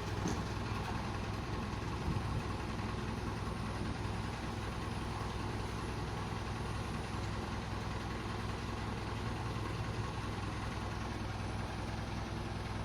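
Truck engine idling steadily, a low, even running sound.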